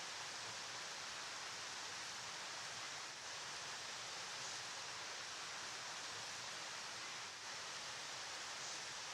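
River water flowing: a steady, even rushing hiss with no separate splashes, dipping slightly twice.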